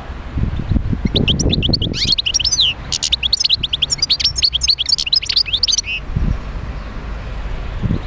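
European goldfinch singing: a fast, twittering run of short rising and falling notes that starts about a second in and stops about five seconds later. A low rumble runs underneath and is most noticeable before and after the song.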